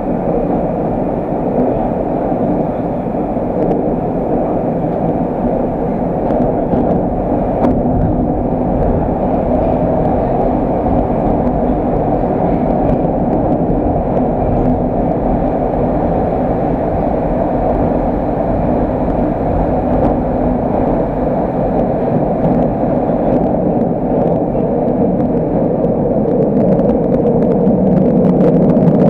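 Moscow Metro train running, heard from inside the carriage: a loud, steady rumble with a low hum, growing a little louder near the end.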